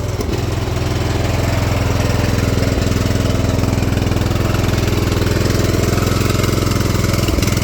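Ranch King riding lawn mower engine running steadily after a cold start, running smoothly.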